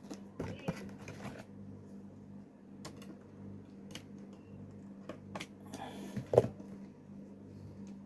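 Handling of a mini sewing machine and fabric: scattered clicks and rustles, with one sharp knock about six seconds in, over a low steady hum.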